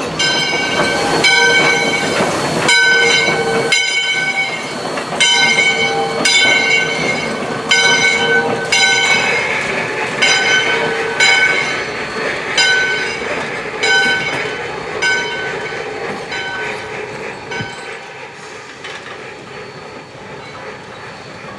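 Steam locomotive bell ringing in steady strokes about every 1.2 seconds, gradually fading away, with a whistle blast of about four seconds over the first strokes. The source is Valley Railroad Mikado #40.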